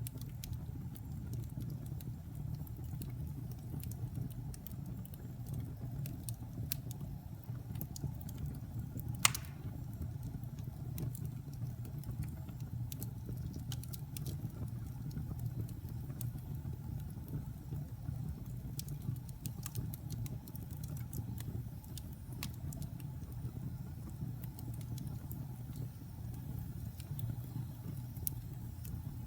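Wood fire burning in a fireplace: a steady low rumble with scattered crackles and small snaps, and one sharp pop about nine seconds in.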